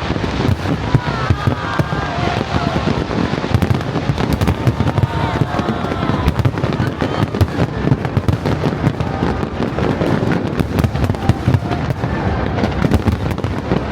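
A fireworks display going off in a dense, continuous run of bangs and crackles, many a second without a pause.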